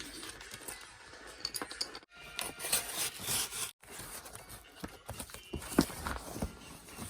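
Rustling, scraping and tearing of packaging or paper being handled, with scattered clicks and taps. The sound cuts out completely twice, briefly.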